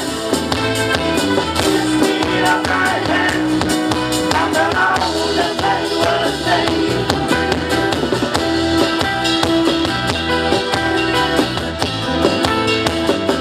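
Band music playing an instrumental passage with a steady drum beat under sustained pitched instruments.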